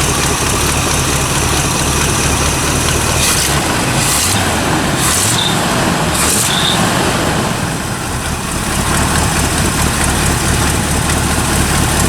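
A 1974 Corvette's freshly swapped small-block Chevy 350 V8 running steadily at idle through its exhaust manifolds and full muffled exhaust, smooth and quiet. A few short hissy noises come over it between about three and seven seconds in.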